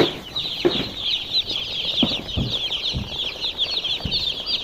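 Many day-old poultry chicks peeping at once: a dense chorus of high, short, falling cheeps with no break. A few soft low thumps come through about half a second, two seconds, three seconds and four seconds in.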